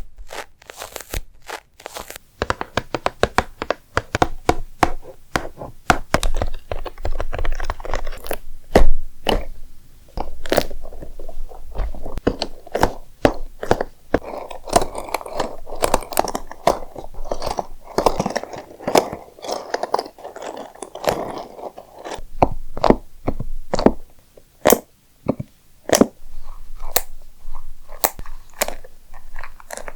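Close-miked ASMR tapping: quick, sharp taps and clicks, irregular in pace, with a denser crackling stretch in the middle.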